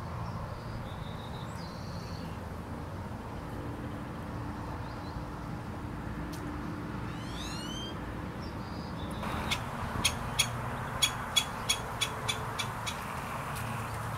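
Steady outdoor background noise. About seven seconds in, a bird gives a quick series of rising notes. From about nine seconds there is a string of a dozen or so sharp, irregularly spaced taps.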